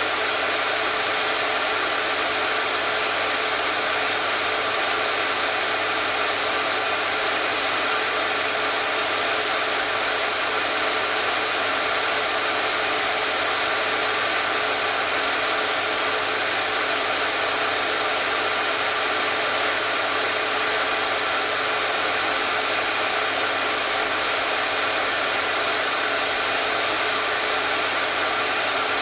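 Hair dryer running continuously at a steady pitch and level, a broad even whoosh of air with a faint motor hum beneath it.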